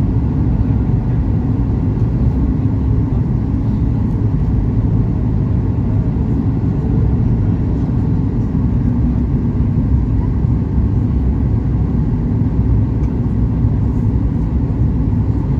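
Steady cabin noise inside a Boeing 737 MAX 8-200 airliner in flight: a loud, even, low rumble of engines and rushing air that does not change.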